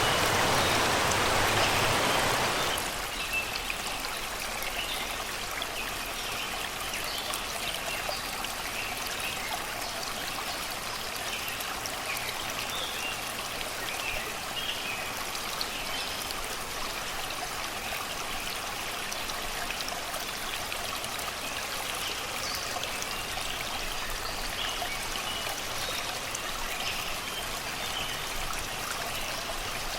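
Shallow river water flowing and babbling over rocks, a steady rush that drops to a softer level about two and a half seconds in. Birds sing in the background with short chirps throughout.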